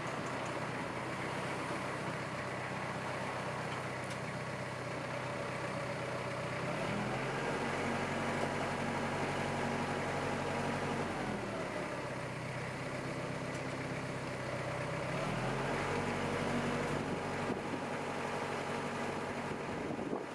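Iseki GEAS41 tractor's 41-horsepower diesel engine running, revved up twice and held for about four seconds each time, a third of the way in and again in the last quarter, settling back to idle in between.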